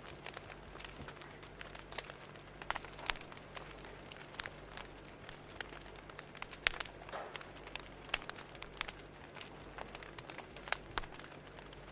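Wood fire crackling: irregular sharp pops and snaps, a few louder ones around three, seven and eleven seconds in, over a faint steady hum.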